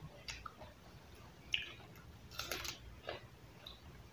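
A person chewing and biting raw lettuce leaves close to the microphone: scattered crisp crunches, with a denser run of crunching about two and a half seconds in.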